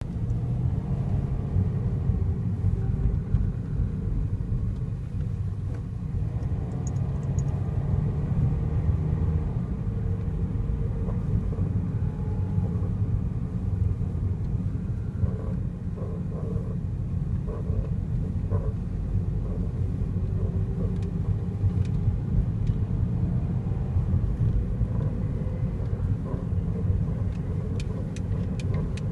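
A 2008 Toyota Vios on the move with a steady low rumble of road and drivetrain noise, recorded to catch a steering noise that occurs only when the car is moving. A few short, faint higher sounds come through around the middle.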